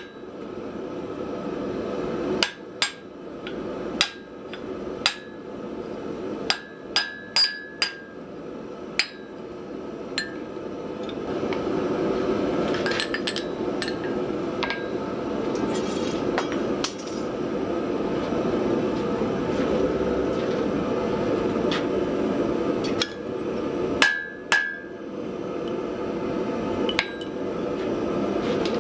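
Hammer striking steel on the anvil in single, irregular blows that ring, while a post vise part is forge-welded and drawn out over a drift. A steady rushing noise grows louder underneath from about a third of the way in.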